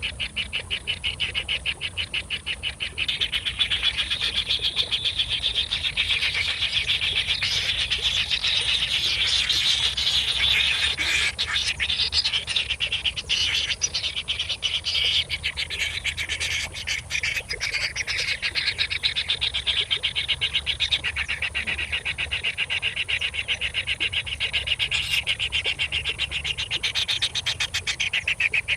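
Nestling birds begging for food, a continuous rapid chirping that goes on without a break and is loudest through the middle.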